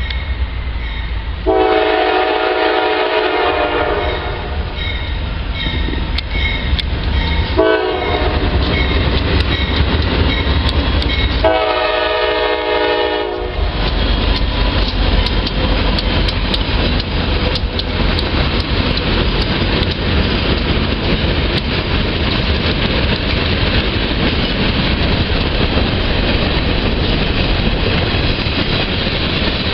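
Diesel locomotive horn on a Norfolk Southern train sounding three blasts, long, short, then long, within the first half, followed by the train rolling past with a steady heavy rumble and the clickety-clack of wheels over rail joints.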